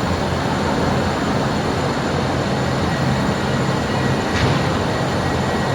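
Electric train running in the station: a steady rumble with even hiss, no change in level.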